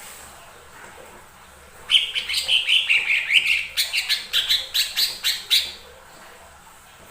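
Cucak ijo mini, a small green leafbird, singing a rapid, varied burst of chattering notes with sharp clicks that starts about two seconds in and stops near the end.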